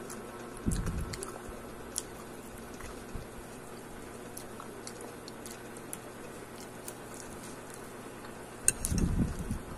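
Close-up chewing and mouth clicks of someone eating a fried root-crop patty. Small wet clicks are scattered throughout, with two louder, muffled bursts of low noise, one about a second in and one near the end.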